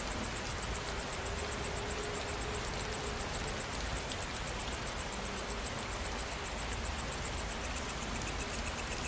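Steady rainfall with night insects chirping throughout in a fast, regular high-pitched pulse, about six pulses a second.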